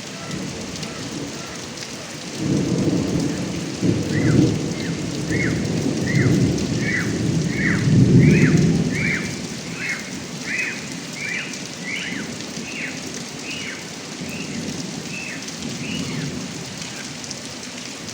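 Heavy rain falling and running off a roof gutter spout, with a long rumble of thunder that builds about two seconds in, peaks near the middle and fades after about ten seconds. A short high chirp, falling in pitch, repeats about twice a second through the middle.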